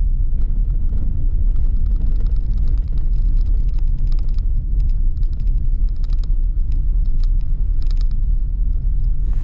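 Steady low rumble with faint scattered ticks.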